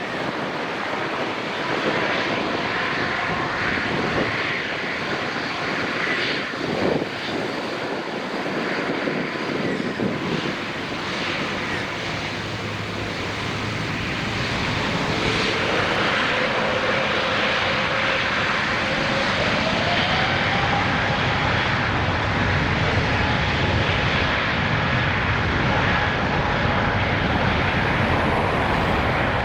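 Airbus A350-900's Rolls-Royce Trent XWB turbofans running at takeoff power: a steady rushing jet noise, with a whine that rises in pitch about halfway through, and the sound growing a little louder after that.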